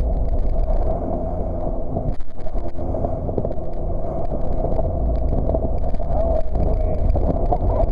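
Jet boat running on the water, a steady engine drone that dips briefly about two seconds in.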